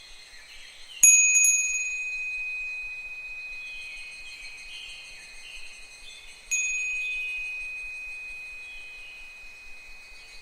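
Japanese fūrin wind bell struck twice, about a second in and again near the middle, each time ringing out clearly and slowly fading. Behind it, higurashi evening cicadas call in repeated falling notes.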